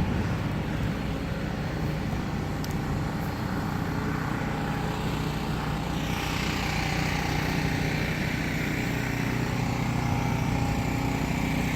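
A motor running steadily with a low hum, and a rushing hiss that grows stronger about halfway through.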